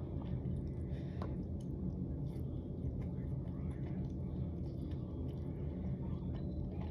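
A person chewing a mouthful of dry hot pot, with faint wet clicks and squishes, over a steady low hum.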